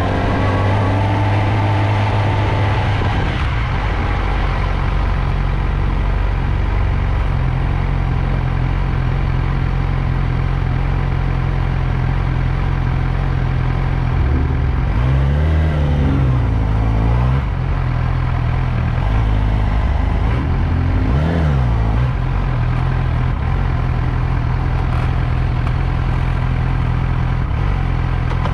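Motorcycle engine running steadily at low revs, rising and falling in pitch twice with brief throttle blips, about halfway through and again a few seconds later.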